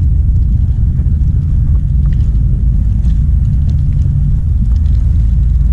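Steady low rumble of wind buffeting an outdoor microphone, with a few faint ticks over it.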